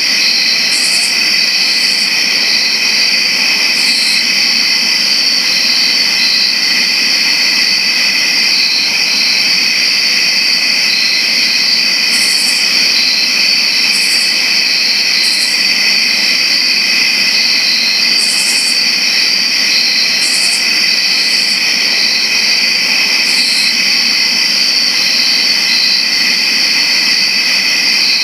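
A dense chorus of crickets chirping, a loud, steady, high-pitched trilling that never lets up, with brief, even higher bursts every second or few.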